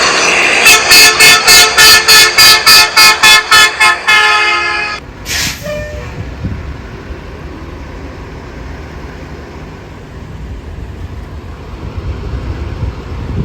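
A truck horn blares, then is honked in a fast run of short toots, about three or four a second, before a final longer blast. About a second later comes a short hiss, and then the Autocar Xpeditor garbage truck's diesel engine runs low and steady.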